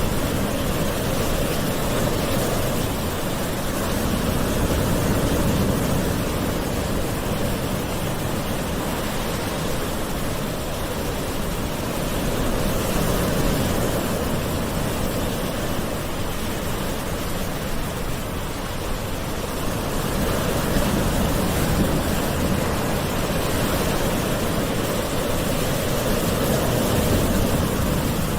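Gentle ocean waves washing in, a steady rush of surf that swells and eases about every eight seconds.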